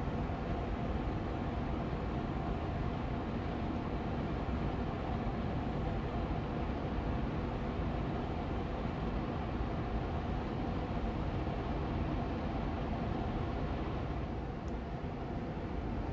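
Austin Air Allergy Machine air purifier fan running steadily on medium speed: an even rush of moving air with a low hum and a faint steady tone.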